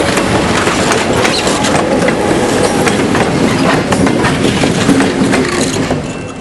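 Passenger train cars rolling past close by, wheels clicking over rail joints amid steady rumbling rail noise, dropping off near the end.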